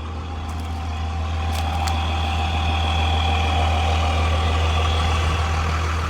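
Grumman step van's diesel engine idling steadily, freshly jump-started after sitting unused, growing a little louder over the first two seconds.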